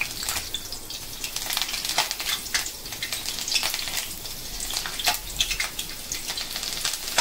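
Green chillies frying in hot oil: a steady sizzle with frequent crackling pops.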